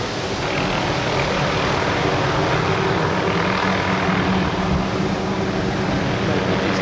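An engine drones steadily over a rushing noise of wind and surf, growing a little louder after about a second.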